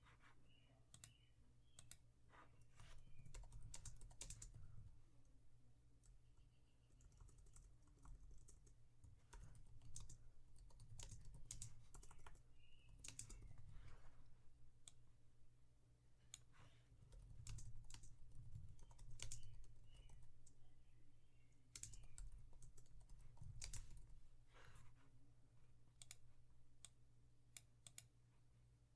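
Soft, scattered typing on a computer keyboard with mouse clicks, interrupted by a few stretches of low, dull thumps.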